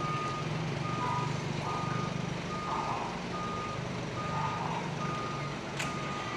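Fire truck's warning beeper sounding short, even beeps just over once a second over the steady hum of its running engine, with one sharp click near the end.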